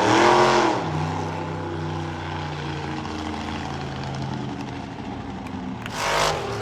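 Monster truck engine revving hard once at the start, then running steadily at low revs, with a second short, sharp rev near the end.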